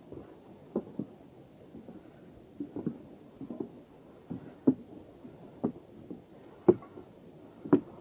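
Footsteps of hikers on the wooden boardwalk of a rainforest trail, a short thud about once a second.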